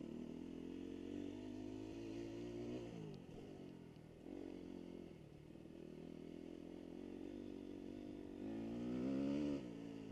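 Dirt bike engine revving up and falling back several times as the throttle is worked. The loudest rise comes near the end and drops off suddenly.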